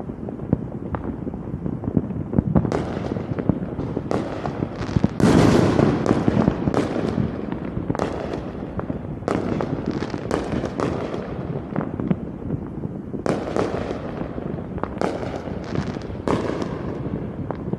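Fireworks going off in quick succession: sharp bangs and crackling bursts throughout, with the loudest burst about five seconds in, over a steady low rumble.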